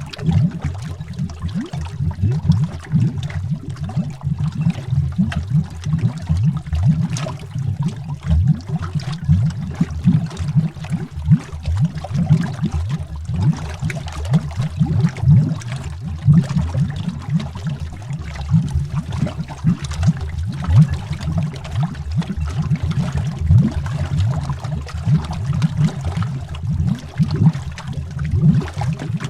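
Underwater bubbling: a continuous stream of deep, irregular bubble pops and gurgles.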